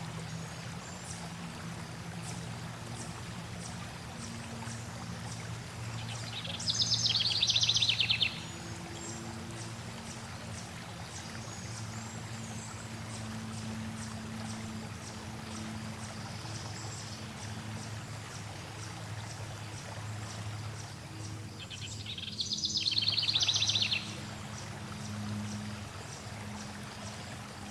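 Steady flowing water, with songbirds singing over it. A loud, rapid trilled song comes twice, about seven and twenty-two seconds in, each lasting under two seconds, and fainter high chirps are scattered between.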